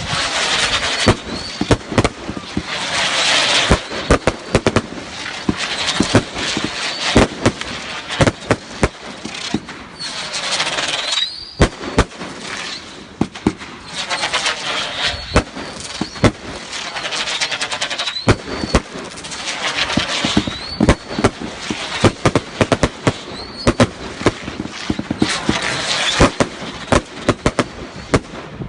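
Fireworks barrage going off in rapid succession: dense sharp bangs and crackling, with short rising whistles from whistling fireworks every few seconds.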